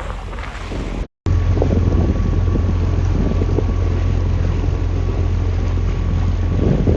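Wind buffeting the microphone on a boat under way. After a brief cut about a second in, a boat engine drones steadily and low, with a faint steady whine above it, as the boat motors along.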